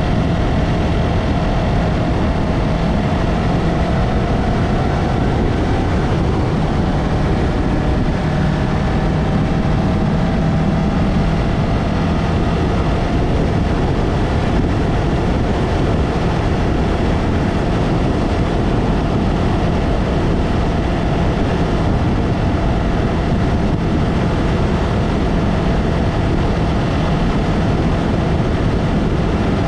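Yamaha MT-03 motorcycle engine running steadily under way, buried in heavy wind and road noise on the rider-mounted GoPro; the engine's pitch shifts slightly a few seconds in.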